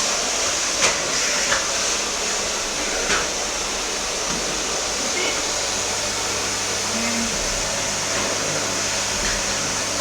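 Bagged canister vacuum cleaner running steadily, its suction motor giving an even, hissing whine. A few light knocks come in the first three seconds as the nozzle works over the floor.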